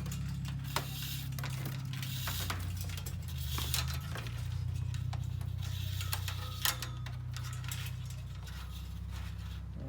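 A steady low background rumble, with light clicks and knocks of hand work scattered over it.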